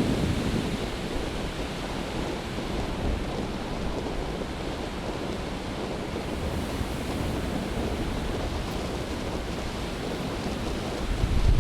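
Winter storm surf breaking and washing in as a steady, even noise of waves. Wind buffets the microphone, with a strong low gust just before the end.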